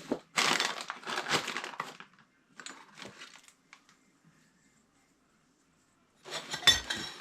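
Crinkling rustle of plastic being handled, then a quiet spell, then a knock and ringing metallic clinks near the end as copper pipe fittings are handled.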